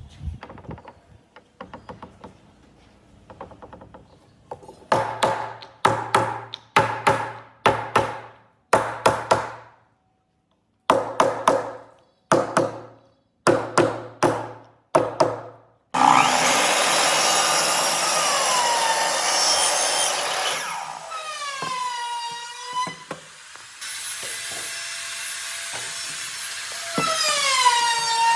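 Wood being worked with tools: a run of about two ringing strokes a second, then a power tool starts about halfway in and runs loudly at high speed, its pitch dipping and recovering several times as it bites into the wood.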